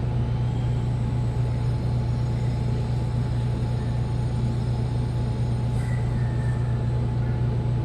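Washing machine drum spinning at high speed: a steady, even low hum with no change in pace.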